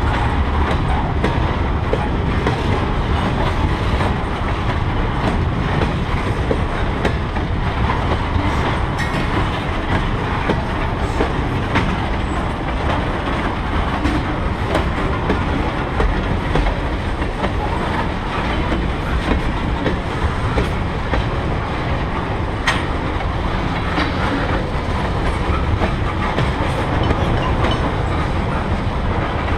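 Freight train of tank cars rolling past: a steady rumble and rattle of steel wheels on the rails, with a few sharp clicks.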